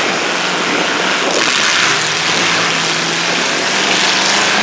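Demolition derby vehicle engine running hard at high revs, a steady engine note under a loud rushing exhaust noise that gets louder about a second in.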